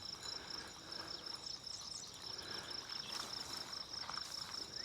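Crickets chirping: a steady, high, rapidly pulsed trill over faint outdoor background noise.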